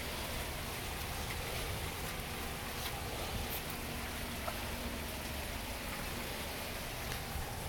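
Steady rain falling, an even hiss of rain on surfaces with a few scattered drop ticks.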